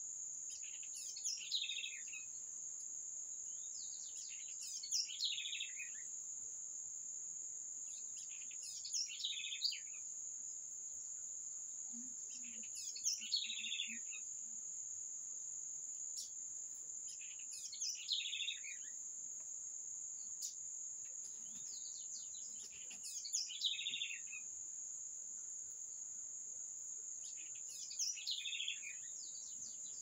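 A songbird repeating a short, falling phrase about every four to five seconds, over a continuous high-pitched insect drone.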